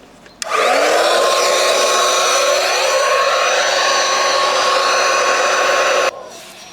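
Electric air pump switched on about half a second in. Its motor spins up to a steady pitch with a loud rush of air, runs for about five and a half seconds, then switches off abruptly.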